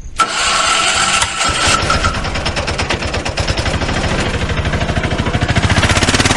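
A small engine running with a fast, even chatter, starting abruptly, with a high steady whine over it for the first two seconds.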